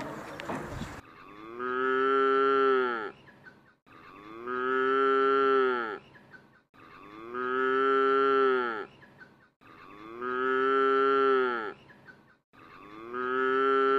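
A cow mooing five times, about every three seconds; each moo is the same long call that sags in pitch at its end.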